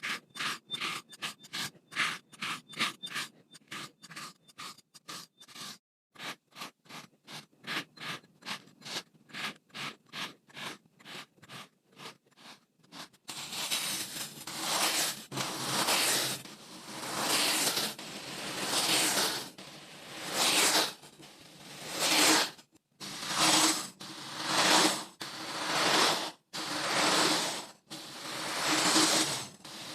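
Kinetic sand being cut with a blade, making crunchy scraping strokes. For the first half the cuts are short and quick, about three a second. From a little before halfway they become longer, fuller scrapes, about one a second.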